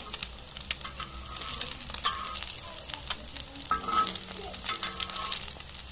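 Egg-dipped bread sandwich sizzling and crackling in oil on a hot tawa over low heat, with many small pops. A metal spatula scrapes against the griddle a few times, most loudly about four seconds in.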